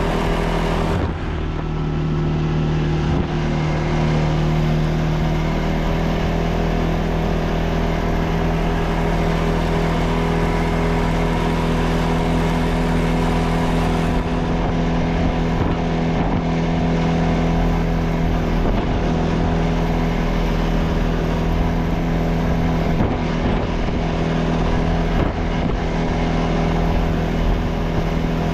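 ATV engine running steadily under way, a steady hum with a brief dip in throttle about a second in.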